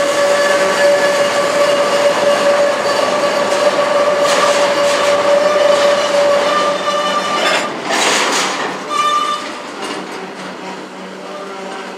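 Union Pacific double-stack intermodal freight train's loaded well cars rolling past close by. A steady high tone rides over the rolling noise for about the first seven seconds, then stops, and the sound thins out toward the end.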